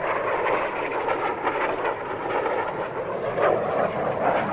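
Jet noise from a restored F-5B Tiger, with its two small turbojets, flying past: a steady, loud rush of engine noise.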